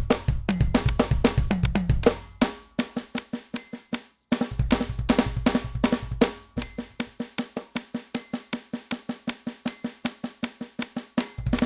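NUX DM-8 electronic drum kit played as a groove, with bass drum and snare hits. There is a brief break about four seconds in, then a fast, even run of drum strokes without the bass drum, and the kick comes back near the end.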